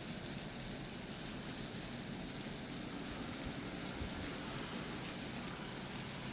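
Steady, even hiss of rain falling during a thunderstorm.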